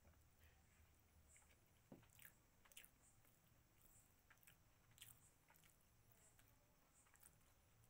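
Faint close-up eating sounds: a person chewing mutton curry, with scattered soft wet clicks of the mouth and fingers picking at the food on a paper plate.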